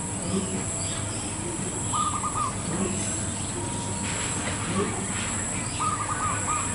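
Zebra dove (perkutut) singing from a tree: two short phrases of quick, stuttering coos, about two seconds in and again near the end.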